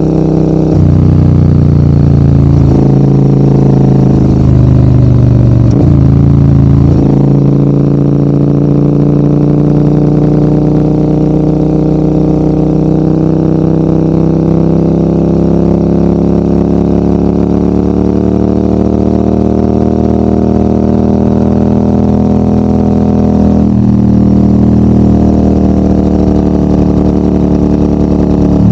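Maxi-enduro adventure motorcycle engine pulling uphill under load. Its pitch steps up and down several times in the first seven seconds, then rises slowly and steadily for about fifteen seconds. It dips briefly about four seconds before the end and climbs again.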